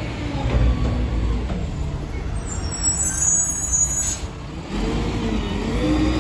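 Diesel engine of a Mack LR garbage truck with a McNeilus Meridian body, running with a steady low rumble. A high squeal is heard about midway. In the last second or so the engine's pitch rises and falls.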